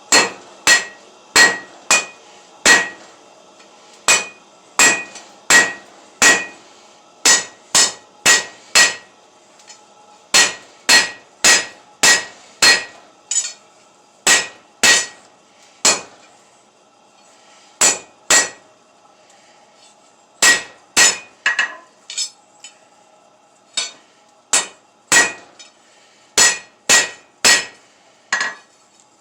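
Blacksmith's hand hammer striking hot metal on an anvil while forging a table leg. The blows come in runs at about two a second with short pauses between runs, and each blow rings.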